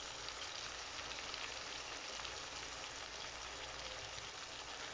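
Chicken and bitter gourd sizzling steadily in a karahi, a constant fine crackling hiss.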